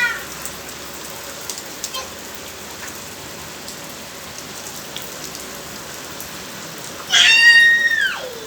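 Steady rain falling, with a few single drop taps. About seven seconds in, a loud, high-pitched drawn-out cry that falls in pitch at its end.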